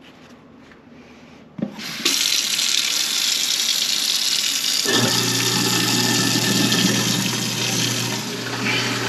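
Kitchen faucet turned on with a click, water running hard into the sink from about two seconds in. About five seconds in the newly reinstalled garbage disposal starts and runs with a steady hum under the water.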